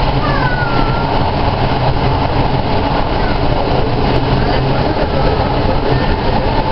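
Interior running noise of an SA103 diesel railbus under way: a steady low engine drone under continuous wheel and rail noise.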